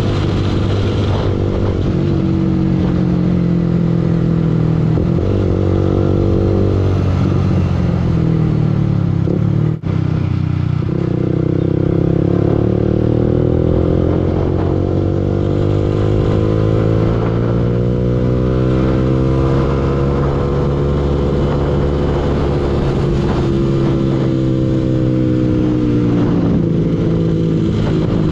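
Yamaha R15 V2's 150 cc single-cylinder four-stroke engine running under way, its pitch rising and falling several times with the throttle, with a very brief break about ten seconds in.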